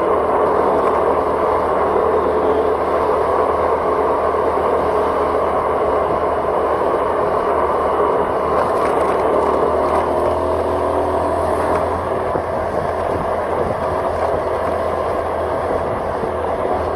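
Steady engine and road noise from a vehicle travelling along a road, with no marked change in speed.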